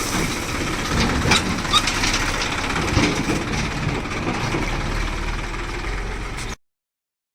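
Massey Ferguson tractor engine running steadily, with a few sharp knocks over it in the first few seconds. The sound cuts off suddenly near the end.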